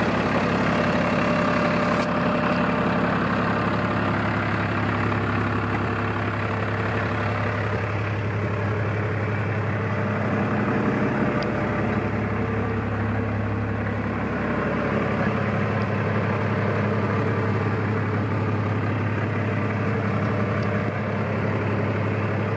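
2003 New Holland TS115 tractor's diesel engine running steadily at a low idle, with an even low hum.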